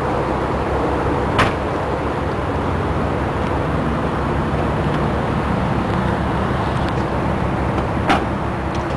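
BMW 135i's straight-six engine idling with a steady low exhaust rumble, with two sharp clicks, about a second and a half in and near the end.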